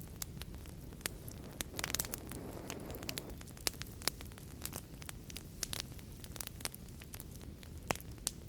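Fireplace fire crackling, with irregular sharp pops over a steady low rumble of flames; a quick cluster of pops and a brief hiss about two seconds in.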